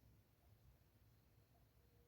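Near silence, with only a faint low background noise.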